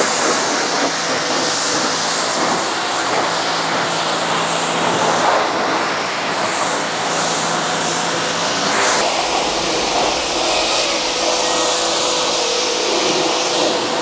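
Pressure washer (jet wash) spraying water onto a car, a steady loud hiss of spray over the pump motor's hum; about nine seconds in, the spray note shifts and a low rumble comes in.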